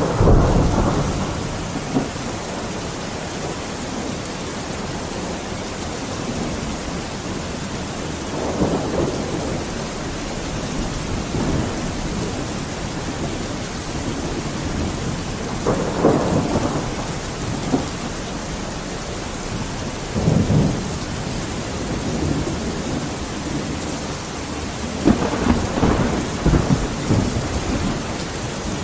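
Steady rain with rolls of thunder: a loud crack and rumble right at the start, further rumbles a third and about halfway through, and a longer crackling roll near the end.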